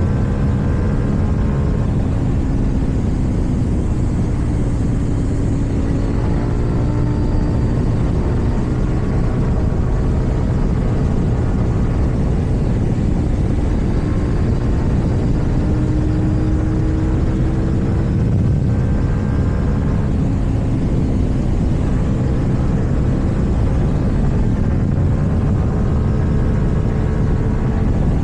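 KTM 790 Duke's parallel-twin engine running under way through an Akrapovic exhaust, its note slowly rising and falling as the throttle and speed change, over heavy wind rumble on the microphone.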